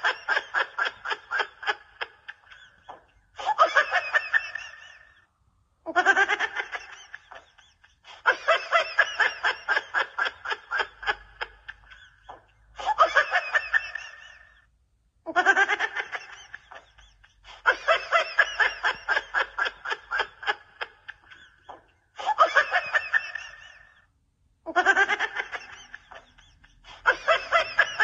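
A person laughing in repeated high-pitched fits, each a quick run of ha-ha pulses that opens with a rising squeal, with short pauses between fits.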